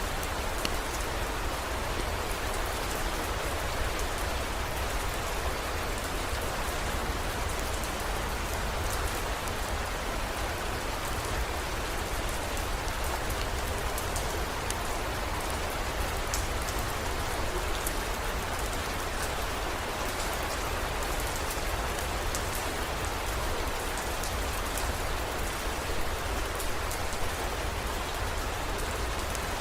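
Steady heavy rain, a constant hiss with many small sharp drop ticks scattered through it, over a steady low rumble.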